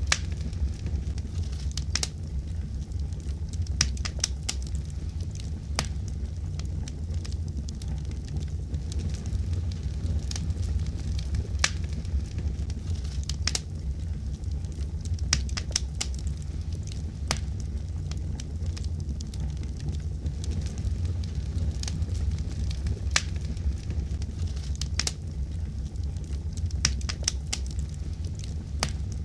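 Wood fire in a fireplace crackling, with sharp irregular pops over a steady low rumble of the flames.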